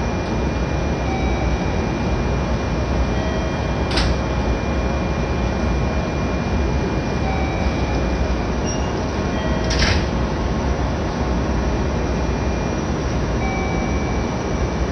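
Steady running noise of a JR 415-series electric train standing at the platform, not yet moving, with faint short tones here and there and two sharp clicks, about 4 and 10 seconds in.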